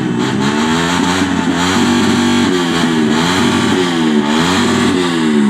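Motorcycle engine revving up and down again and again, its pitch rising and falling several times at high revs.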